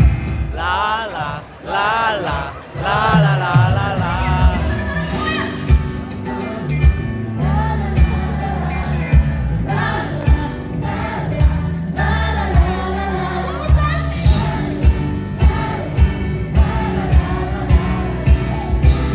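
Live pop concert music: a woman singing long notes with a wide vibrato over the band, then the band carrying on with a regular drum beat.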